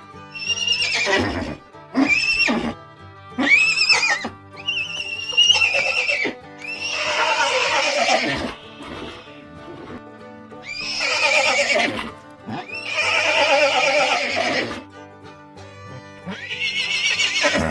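Horses neighing again and again: a run of short neighs, then several longer whinnies. Background music plays underneath.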